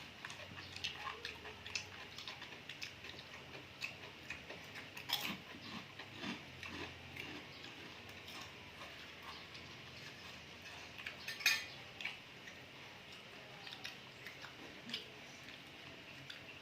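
Eating sounds: sea grapes being chewed close to the microphone, with light clinks of cutlery on dishes. They come as scattered short clicks, the sharpest about eleven seconds in.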